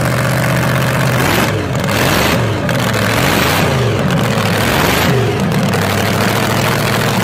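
Supercharged V8 with a roots blower and injector stacks on a gasser-style sedan, idling and then revved in a run of quick blips for about four seconds, the pitch rising and falling with each one. It then settles back to a steady idle.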